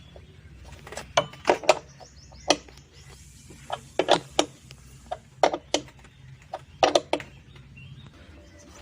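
Irregular sharp knocks and clacks of hard parts, often in quick pairs, as a top-loader washing machine's drive motor is worked and knocked into its mount. A faint low hum runs underneath and stops near the end.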